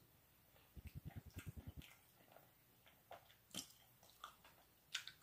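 Faint mouth sounds of a person chewing and biting food, with a quick run of low thumps about a second in and a few sharp clicks later on.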